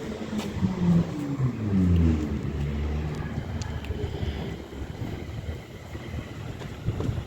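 Class 350 Desiro electric multiple unit slowing: its traction motors whine down in pitch over the first two seconds as it brakes, then settle into a low hum that fades away.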